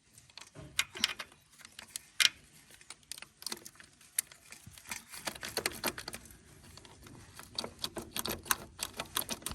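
Small metal parts and hand tools clinking and tapping irregularly, with one sharp clink about two seconds in and a quick run of clicks in the second half.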